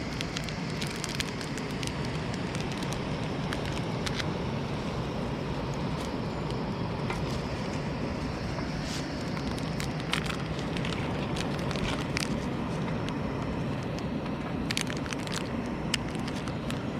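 Wood campfire crackling over a steady low hiss, with scattered sharp pops that come in small clusters about ten seconds in and again near the end.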